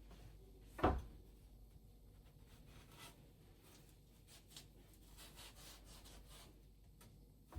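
Quiet handling sounds: one sharp knock about a second in, then faint rubbing and small scattered clicks.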